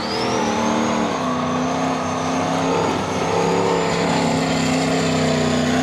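Pontiac Turbo Trans Am's engine pulling under acceleration, its pitch climbing over the first second and then holding nearly steady, with a thin high whine above it.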